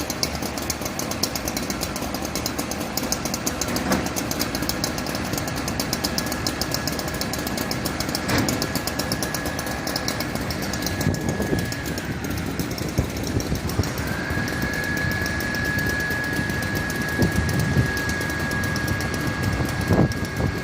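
Fire truck engine running steadily, with a thin high-pitched whine on top. About halfway through the whine slides down and fades, then comes back and holds.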